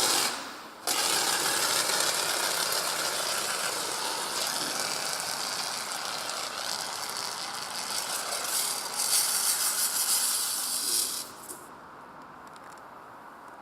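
Blue paint spray hissing in one long continuous burst, with a brief break about half a second in, then cutting off about eleven seconds in.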